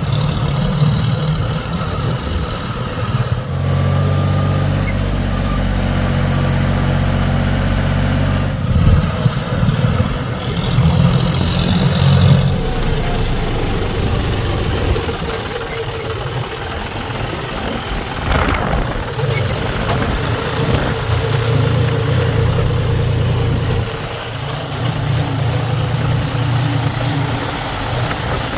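Diesel engine of a JCB 3DX backhoe loader running, its low note swelling and easing every few seconds as it works digging and loading mud, with scattered clatter over it.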